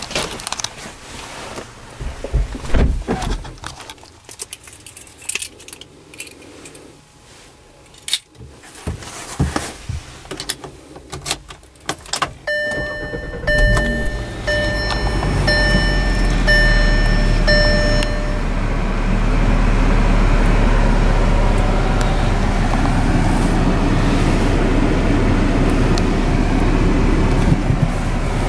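Scattered clicks and handling noises, then a run of evenly spaced dashboard warning chimes about twelve seconds in as the key is worked in the ignition of a 2013 Volkswagen Beetle. Its 2.5-litre five-cylinder engine starts under the chimes and then idles steadily.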